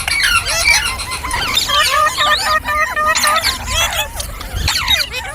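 Green parrots chirping and squawking in a fast, continuous string of short, up-and-down calls that overlap one another.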